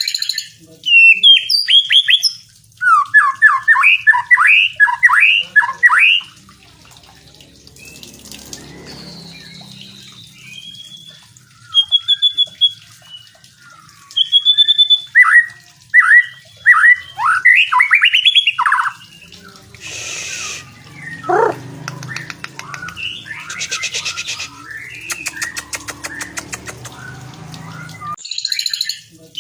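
White-rumped shama (murai batu) singing: loud bursts of fast, varied whistled notes and sweeps, in phrases broken by pauses. Softer calls and a stretch of quick rattling notes come in the latter part.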